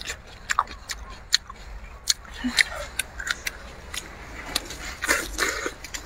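Close-up mouth sounds of someone biting into and chewing a ripe, juicy dark cherry tomato: irregular wet clicks and smacks, with a louder cluster about five seconds in.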